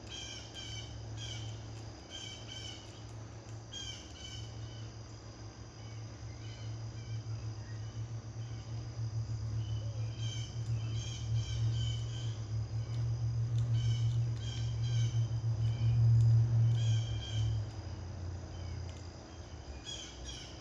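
Small songbirds chirping in short repeated bursts over a steady high insect buzz, with a low hum underneath that gradually grows louder, peaks about three-quarters of the way through, then drops away.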